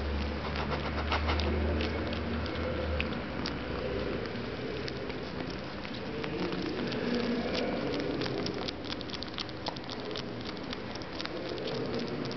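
A cat's paws and claws pattering and clicking lightly on stairs, with scattered faint ticks throughout and a low hum in the first three seconds.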